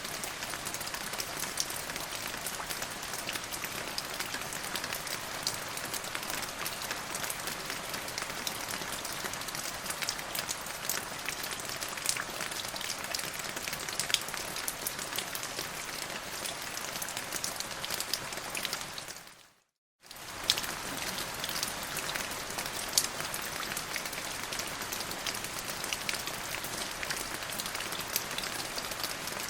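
Steady rain falling on a surface, an even hiss dotted with many small drop ticks. About two-thirds of the way through it fades out to silence for about half a second, then comes straight back.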